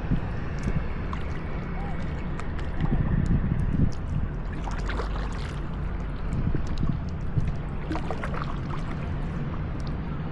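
Paddling a double kayak: paddle blades dipping and splashing in the water every couple of seconds, over a steady low rumble.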